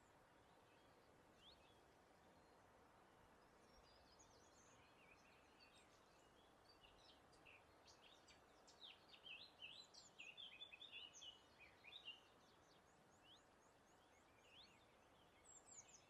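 Faint wild birdsong: many quick chirps and short sliding notes, thickest and loudest in the middle, over a steady soft hiss.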